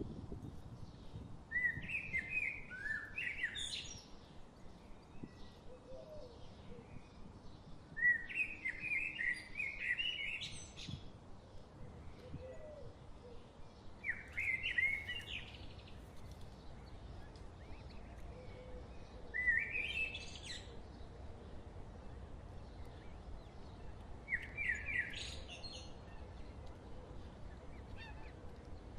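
A songbird singing the same short phrase five times, roughly every five to six seconds, each a quick run of chirps ending in a rising note, over a low steady outdoor background noise.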